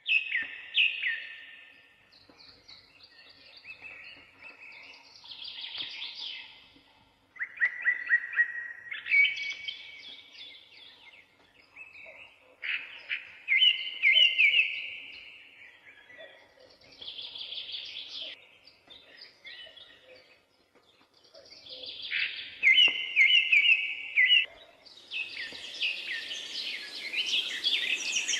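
A songbird singing loud, repeated phrases of quick notes and trills every couple of seconds. Near the end a steady rushing noise comes in under the song.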